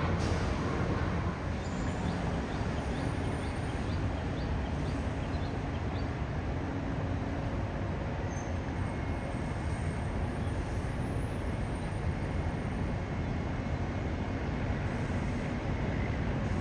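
Jet aircraft engine noise, a steady rumble that holds level throughout, with a short run of faint high ticks a couple of seconds in.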